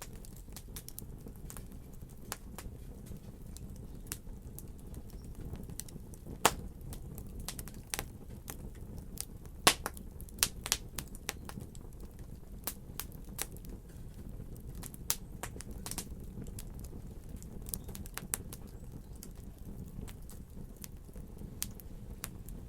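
Fire crackling: irregular sharp pops and snaps over a low steady rumble, with the loudest pops about six and a half and ten seconds in.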